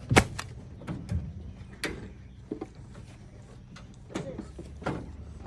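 A scattered series of sharp knocks and clunks, the loudest about a quarter second in, over a steady low hum.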